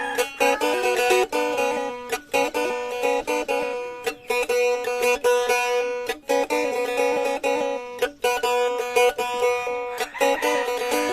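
Blaan faglung, a two-stringed boat lute, played solo: a quick plucked melody over a steady drone note, the phrase breaking off briefly about every two seconds.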